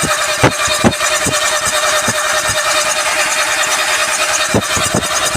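Fiat Doblò 1.8 16v engine running on test with freshly installed hydraulic tappets throwing oil, a steady dense mechanical clatter with a few irregular knocks through it.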